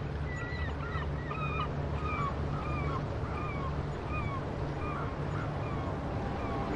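A bird calling repeatedly in short, bending calls, about two a second, growing fainter toward the end, over a steady low rumble.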